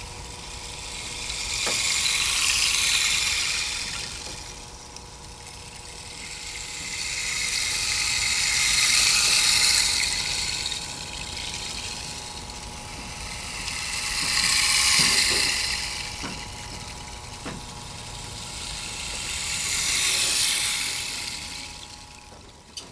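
Washes of rushing, hissing noise that swell and fade four times, about every six seconds, over a faint steady hum, with a few soft clicks, as part of a sound art piece.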